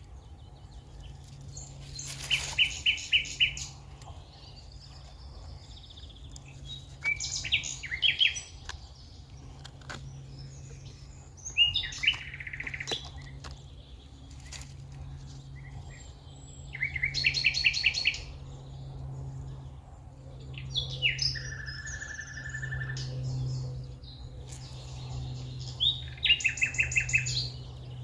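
A songbird singing short phrases of rapid repeated high notes, one phrase every four to five seconds, over a steady low background hum.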